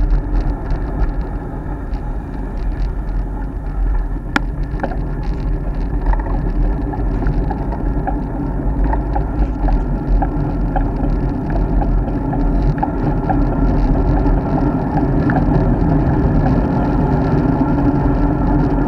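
Wind buffeting the action camera's microphone and the road bike's tyres rolling on the road, a steady loud noise, with small rattling ticks and one sharp click about four seconds in.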